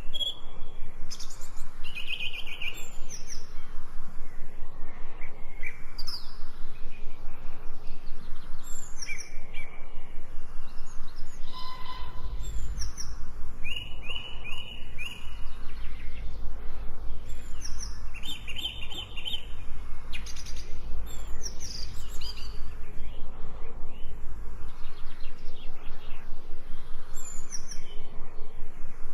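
Wild birds chirping and singing: many short high chirps and quick trills from several birds. A low rumble runs underneath through the middle of the stretch.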